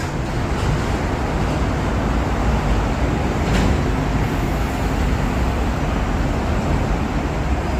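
MTR M-Train, a non-passenger engineering train, running through a metro station: a steady low rumble with a hiss over it, and one faint click about three and a half seconds in.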